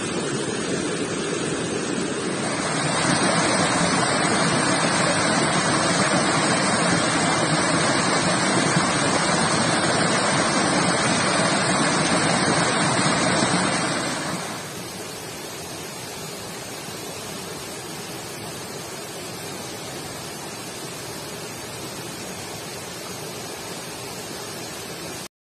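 Steady rush of stream water. It grows louder a couple of seconds in, then drops to a quieter rush about halfway through and stops abruptly just before the end.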